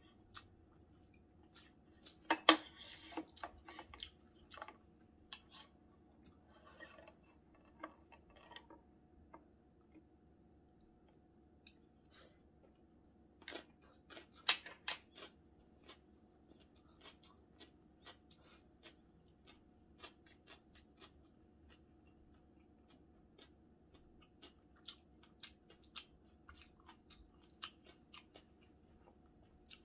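Close-miked eating sounds: chewing dumplings with scattered sharp mouth and chopstick clicks, the loudest at about two and a half and fourteen and a half seconds, over a faint steady hum.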